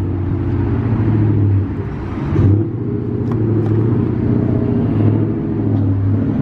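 A motor vehicle engine idling steadily, with a brief swell in level about two and a half seconds in.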